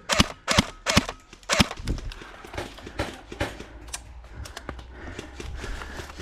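Airsoft guns firing single shots: four loud sharp cracks about half a second apart in the first second and a half, then fainter, irregular shots and clicks.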